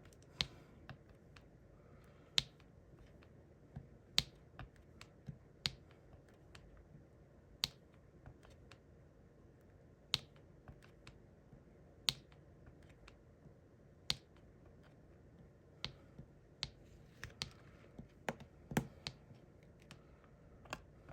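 Sharp little clicks and taps of a diamond painting pen picking up resin drills and pressing them onto the canvas, about one every second or two, coming quicker near the end.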